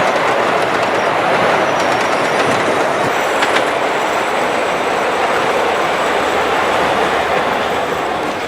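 Train wheels rolling along the rails in a steady, loud rumbling clatter. It starts to fade near the end.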